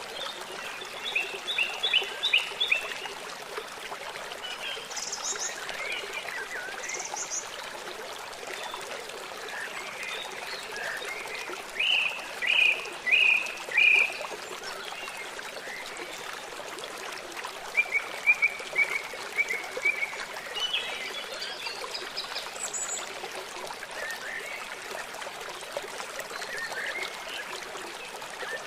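Small birds chirping and twittering in short phrases, loudest about a third of the way in, over the steady rush of a trickling stream.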